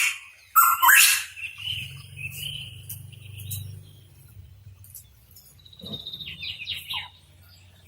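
Pitohui calling: a loud harsh call about half a second in, then a drawn-out whistled note, and a quieter run of short falling notes near the end.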